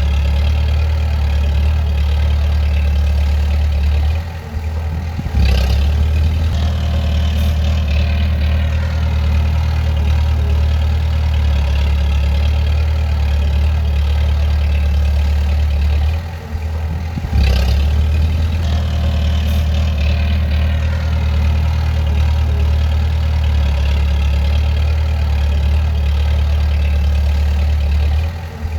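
Bulldozer's diesel engine running steadily with a deep hum, easing off briefly about four seconds in and again about sixteen seconds in, then picking back up.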